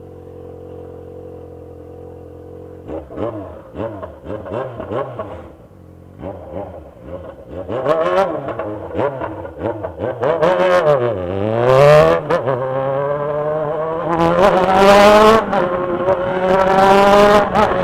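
Yamaha XJ6 motorcycle engine idling steadily, then revved in a series of quick throttle blips that rise and fall about once a second, building to louder, longer, higher revs in the second half.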